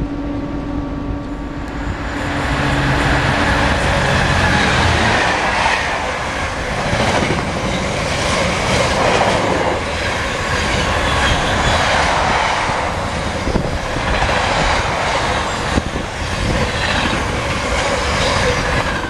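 Container freight train running through at speed: the wagons' wheels rumble steadily on the rails, with sharp clicks and clatter as they cross rail joints. A low steady hum is heard for the first few seconds as the head of the train passes.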